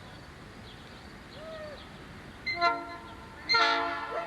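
Diesel locomotive air horn sounding two blasts: a short one about two and a half seconds in, then a louder, longer one a second later.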